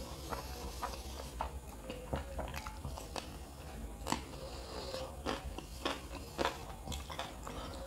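Close-up chewing and biting of kottu roti: irregular sharp mouth clicks and crunches, several a second, with a louder click about four seconds in.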